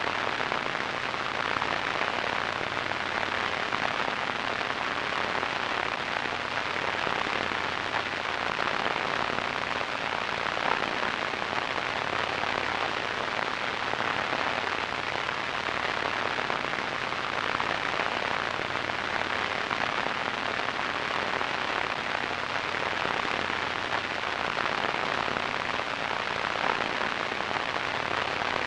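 Radio static: a steady, even hiss with a fine crackle, strongest in the middle and upper-middle range and without any tone or voice.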